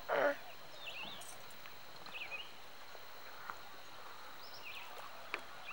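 Faint, high bird chirps, a few separate short calls spread over several seconds, over quiet open-water background. A brief louder sound comes right at the start.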